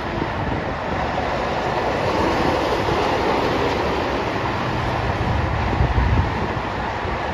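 Diesel freight locomotives running along the track, a steady noise of engines and wheels that swells a little in the low end about five seconds in.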